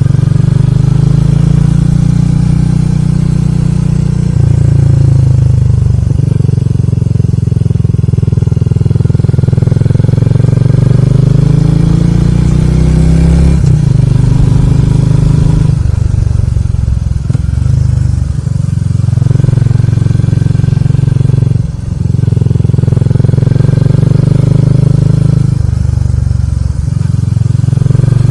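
Motorcycle engine running at road speed, heard on board with wind noise on the microphone. The engine note steps up and down several times as the throttle changes.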